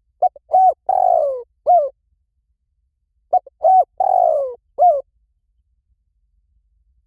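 Spotted dove cooing twice, about three seconds apart. Each phrase is a few short notes, then a long falling coo and a short closing note. It is a recorded call played as a lure to draw spotted doves to a decoy.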